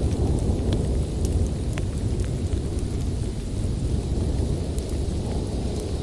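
Steady low rumble of snowstorm wind, with scattered small sharp crackles and pops from a wood fire.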